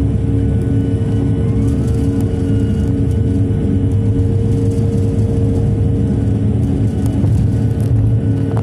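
Bombardier CRJ 200 jet's turbofan engines at takeoff power: a loud, steady rumble with a constant hum over it.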